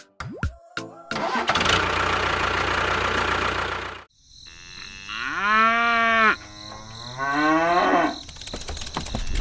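A small motor runs with a rough rattle for about three seconds and cuts off suddenly. Then come two long, drawn-out calls like a cow mooing, followed by fast clicking near the end.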